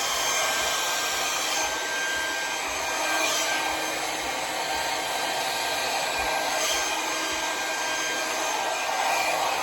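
Conair hand-held hair dryer with a nozzle attachment blowing steadily: an even rush of air with a thin, steady whine.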